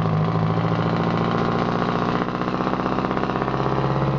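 Detroit Diesel 8V71 two-stroke V8 running through straight pipes, a steady stream of rapid exhaust pulses.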